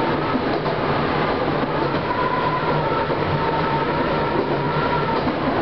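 Chichibu Railway electric train running along the main line, heard from inside the front cab: a steady rumble of wheels on rail with a faint, steady whine over it.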